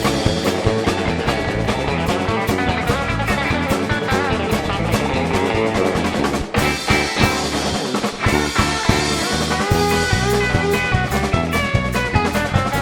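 Band playing an instrumental break with guitar and drum kit and no singing. The music drops out for a moment about six and a half seconds in.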